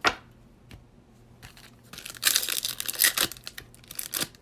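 A single click, then the wrapper of a baseball card pack crinkling and tearing open, starting about two seconds in.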